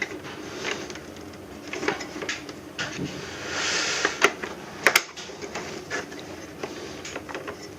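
Clicks and knocks of the plastic casing of an air conditioner being handled and pried apart, with a short scraping sound about halfway through and a few sharp snaps just after.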